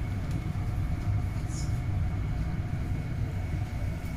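Passenger train running noise heard from inside the carriage as it moves past the station: a steady low rumble with a thin, steady high whine.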